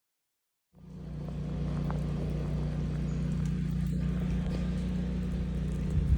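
A whole-house standby generator's engine running at a steady speed, giving an even low hum that starts abruptly about a second in. A brief low bump comes near the end.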